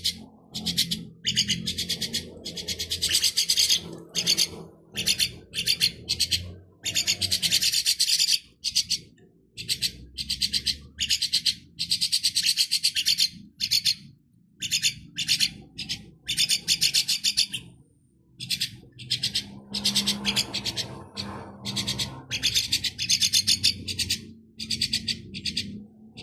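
Hungry four-week-old hand-fed baby birds giving harsh, raspy begging calls. The calls come in repeated bursts, from a fraction of a second to about two seconds long, with short gaps between them.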